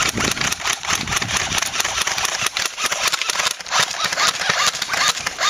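Airsoft guns firing in a fast, continuous run of shots: rapid clicking cracks, many to the second.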